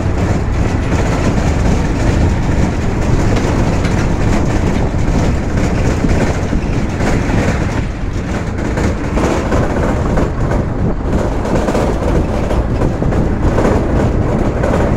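Bangladesh Railway intercity passenger coaches rolling slowly past, their wheels clattering steadily over the rail joints.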